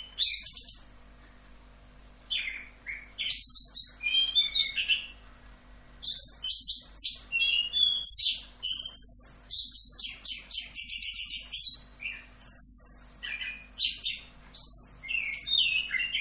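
Chestnut-capped thrush (anis kembang) singing a varied, high-pitched song of quick whistled and trilled phrases. It pauses briefly about a second in and again around five seconds in, then sings almost without a break.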